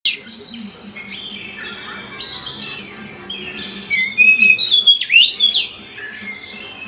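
A caged songbird singing a varied run of whistled phrases and chirps, louder for about two seconds in the middle with quick rapid-fire notes and sharp sweeping calls.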